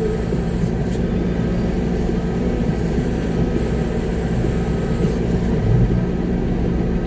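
Concrete mixer truck's diesel engine running steadily, a low hum heard from inside the cab.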